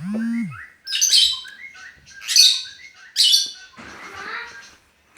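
Pet bird chirping and squawking: four loud, high calls roughly a second apart, the last one harsher, after a short low tone that slides up and back down at the start.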